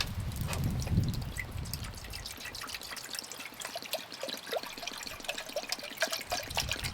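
Water being poured into a cooking pot, a steady trickle with small splashes and gurgles, over low wind rumble at first.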